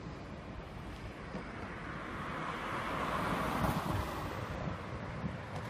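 Running noise of a Korail Line 1 electric rapid train heard from aboard at speed: a steady rush of wheels on rail and passing air, growing louder about halfway through and easing slightly near the end.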